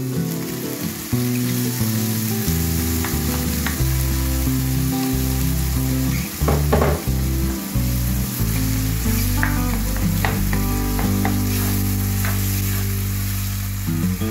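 Crushed tomatoes sizzling as they hit a hot wok of fried onion, carrot, garlic and green chilli and are stirred in, with a few sharp scrapes of the stirring utensil about halfway through. Low background music plays underneath.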